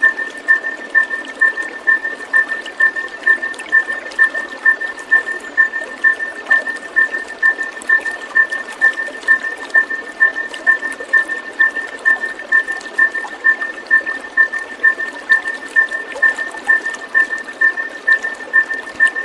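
Trickling, gurgling water, with an even high chirp pulsing a little over twice a second throughout.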